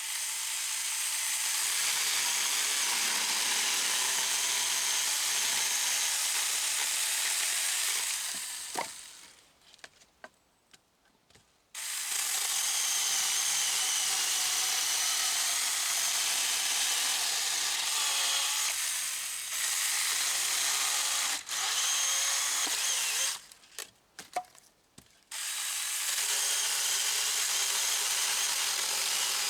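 SAKER mini 20-volt battery chainsaw's electric motor running with a high whine as the chain cuts through branches. It stops twice for a few seconds, with a few small clicks in the pauses, and starts again each time.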